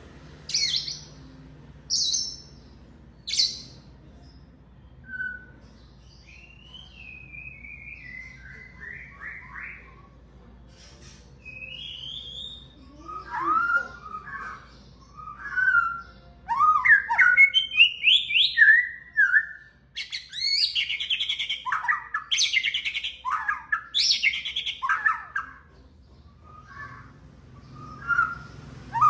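White-rumped shama (murai batu) singing: three sharp chirps in the first few seconds, then a varied run of sliding whistled notes and fast chattering phrases, growing louder and busier past the middle.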